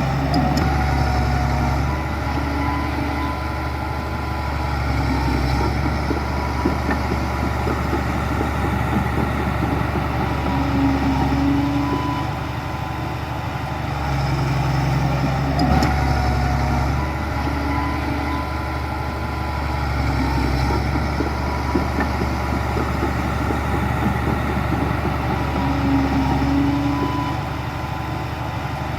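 Heavy diesel engine of earthmoving machinery running steadily, its level rising and falling in a pattern that repeats about every 14 to 15 seconds.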